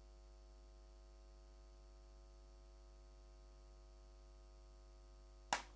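Near silence: a faint steady electrical hum, with one short burst of sound near the end.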